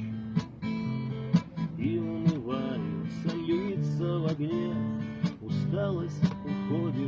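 Acoustic guitar strummed in a steady rhythm, playing chords as the instrumental introduction before the singing begins.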